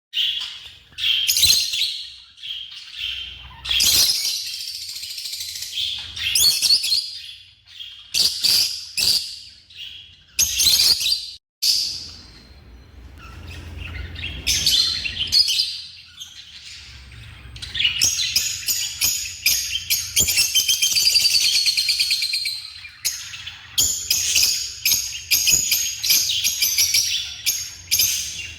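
African lovebirds chirping and chattering in repeated high-pitched bursts, with a long run of rapid, dense chatter in the second half.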